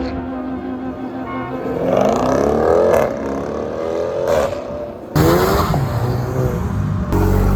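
Car engines revving and accelerating, their pitch climbing in several pulls one after another, with the sound changing abruptly about five seconds in and again about seven seconds in.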